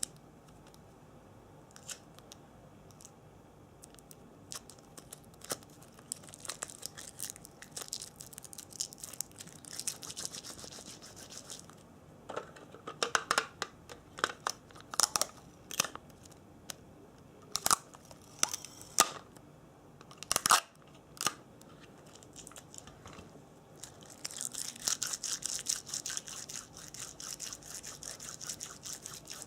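Close-miked ASMR trigger sounds: light scattered taps and clicks, with soft brushing or scratching passages about a quarter of the way in and again near the end. A run of sharper, louder taps comes in the middle.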